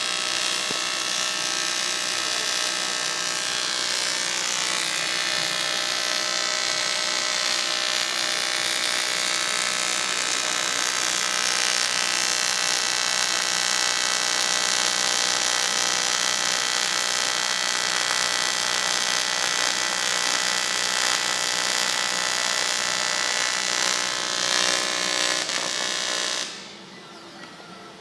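TIG welding arc on aluminium buzzing steadily for most of the stretch, then cutting off suddenly when the arc is broken about a second and a half before the end.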